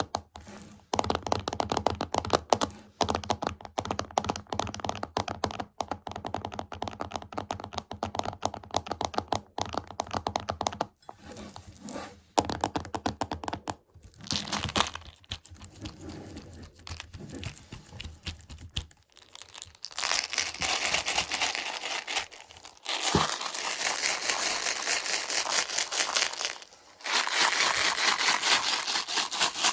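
Close-up tapping and rattling on a Choco Baby chocolate candy container, fast dense clicks that thin out to sparser ones. From about two-thirds of the way through it changes to a dense, continuous crinkling rustle.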